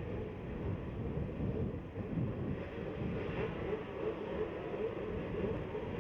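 Several small motocross bikes' engines running at the starting gate, making a steady drone whose pitch wavers as riders blip the throttles ahead of the start.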